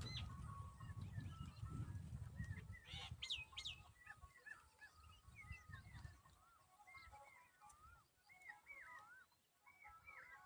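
Birds chirping and whistling faintly with many short calls. Two louder, falling calls come about three seconds in, and a low rumble runs under the first half.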